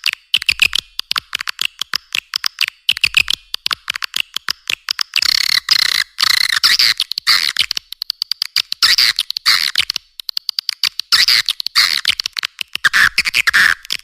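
Recorded call of edible-nest swiftlets, the lure sound played to draw swiftlets into a swiftlet house: dense, rapid clicking chatter mixed with twittering chirps, coming in quick runs with short gaps. It is all high-pitched, with almost nothing in the low end.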